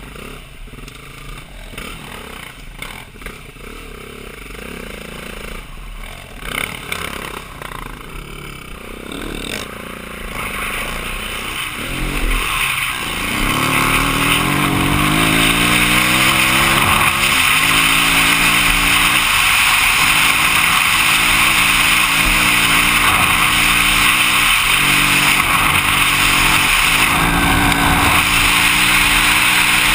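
The 2009 BMW G450X's single-cylinder four-stroke engine being ridden: at low revs with some clatter at first, then from about halfway it gets much louder, the revs climbing and dropping several times as it shifts up through the gears. A loud rushing hiss builds along with the speed.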